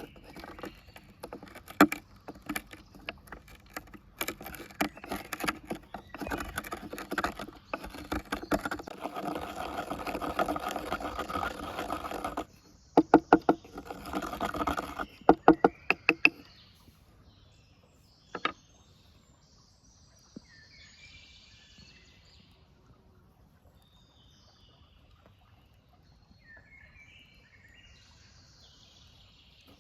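Hands-on food-preparation noises while a marinade is made: knocks, clicks and a steady scraping for about the first sixteen seconds, with a quick run of sharp clicks near the end of that stretch. After that it is mostly quiet outdoor ambience, with a single knock and a few faint bird chirps.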